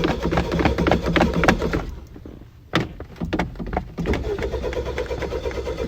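Car's starter motor cranking the engine without it catching: a stretch of rhythmic cranking that stops about two seconds in, a few clicks, then cranking again from about four seconds in. It is the sound of a hard-starting car that won't fire.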